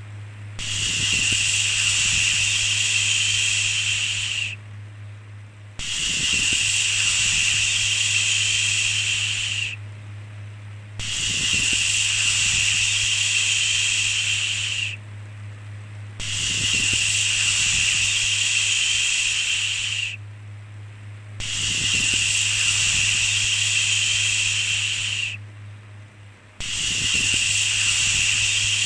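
A long shushing 'shhh', held about four seconds at a time and repeated every five seconds or so, with short dips between. A steady low hum runs underneath.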